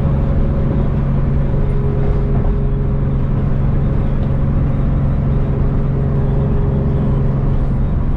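A car driving at highway speed: a steady drone of engine and road noise.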